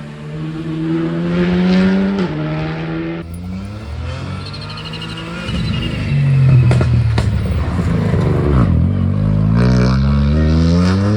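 Turbocharged rally car engine accelerating hard through the gears, its pitch climbing and stepping down at each shift. About four seconds in, after a lift, there is a quick fluttering chatter of turbo flutter (compressor surge). From about halfway, a louder engine revs up steadily, with a few sharp cracks.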